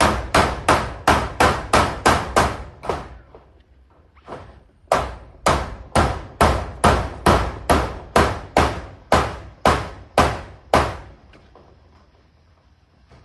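Hammer driving nails in rapid, even blows, about three a second. There are two runs of strikes: one over the first three seconds, and a longer one from about five seconds in to near eleven seconds, with a short pause between.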